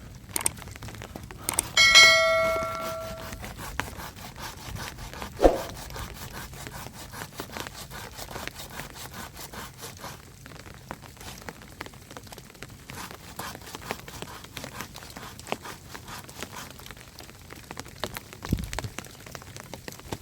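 Rain pattering steadily. About two seconds in, a metal object is struck and rings briefly with several clear tones.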